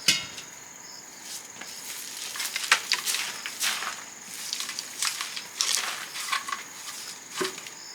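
Scattered clicks, knocks and crunches of food and utensils being handled while cooking, over a steady high-pitched insect trill.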